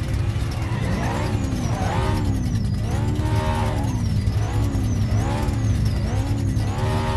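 Ram TRX's supercharged V8 revved in repeated quick blips, about one a second, with the supercharger's high whine rising and falling with each rev.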